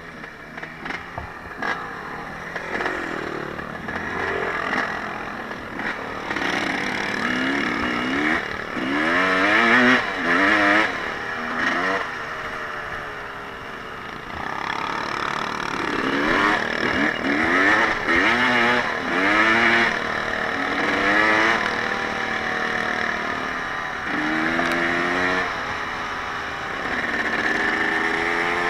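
Small off-road vehicle engine revving up and down again and again as it is ridden. It grows louder over the first few seconds.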